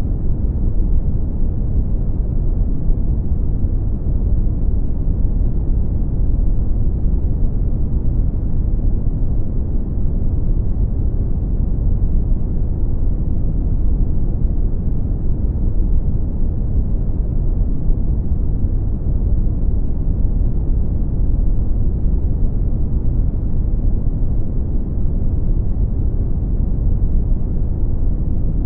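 Brown noise: a steady, deep rumbling hiss with most of its weight in the bass and very little treble, unchanging throughout.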